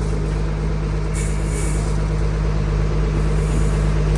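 Truck engine running steadily at low speed, with a brief hiss about a second in.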